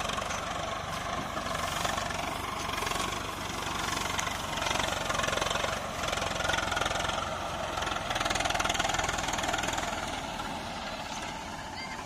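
Swaraj 855 tractor's diesel engine running with a steady, fast knocking pulse, working under load as it pulls a heavily loaded trolley through mud. It grows louder in the middle and eases off near the end.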